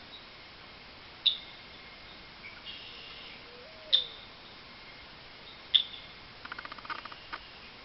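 Eastern bluebirds calling: three sharp, short high chips a couple of seconds apart, with fainter wavering calls between them and a quick buzzy chatter near the end.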